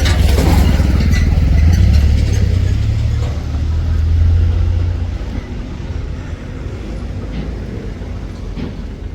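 Heavy diesel machine engine running with a deep rumble, loudest for about the first five seconds and then easing off, with a few faint knocks.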